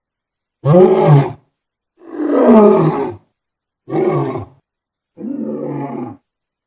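A lion roaring in a series of four separate calls, each about a second long, the last one clearly quieter.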